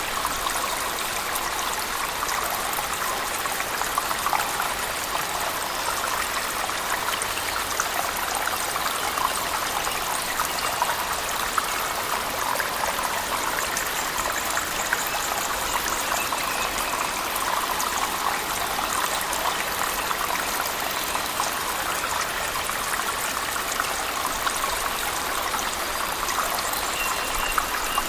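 Waterfall splashing into a cave pool, mixed with heavy rain: a steady, unbroken rush of falling water, speckled with fine patters and splashes.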